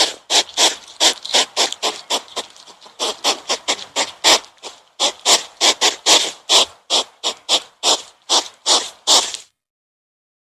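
An animal's rapid series of short, raspy, breathy calls, about three a second, with a brief break about five seconds in.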